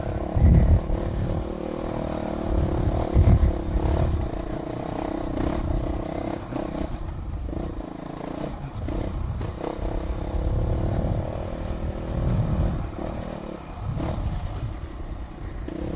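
Dual-sport motorcycle engine running at low, fairly steady revs while riding a rocky trail, with two loud low thumps in the first few seconds.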